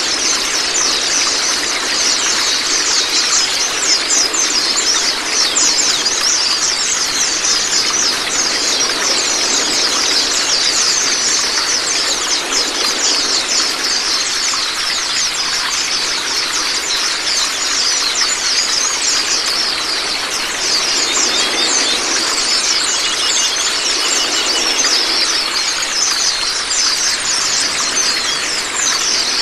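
Steady rush of running water with dense, rapid, high-pitched bird twittering over it: a water-therapy and song-training track for white-eyes.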